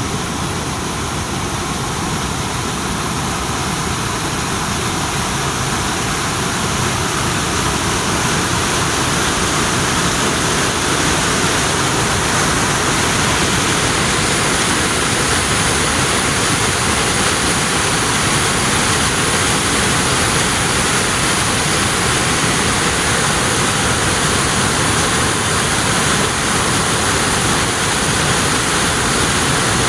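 Waterfall pouring down a mountainside: a loud, steady rush of falling water.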